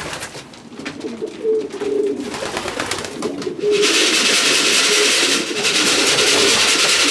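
Racing pigeons cooing, several short low coos, with scattered light clicks and scratches in the first half. From about four seconds in, a steady hiss of noise covers the coos and is the loudest sound.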